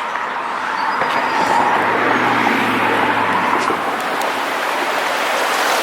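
Fast-moving floodwater rushing steadily, with a low hum for about two seconds in the middle.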